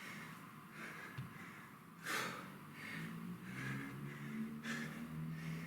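A man breathing hard from exertion during a kettlebell set, with two sharp exhales, one about two seconds in and one near the end.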